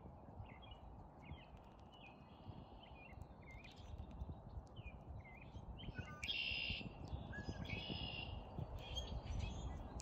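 Small birds calling: a series of short chirps about once a second, with louder, longer calls around six and eight seconds in, over a steady low rumble.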